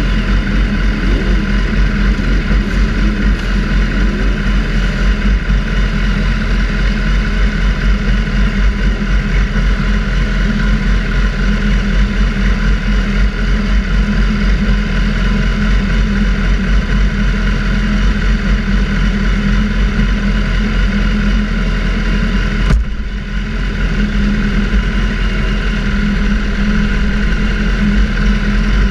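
Sportbike engine running at a fairly steady note, with a brief sharp break and dip in level about 23 seconds in.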